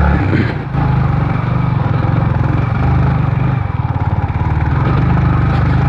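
Motorcycle engine running steadily, with a short dip in its sound about half a second in.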